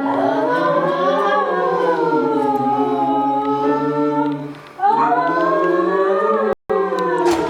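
An a cappella group singing a vocal warm-up in several parts: held chords on open vowels that glide slowly up and down, in two long phrases with a short breath about four and a half seconds in. The sound cuts out completely for a split second near the end.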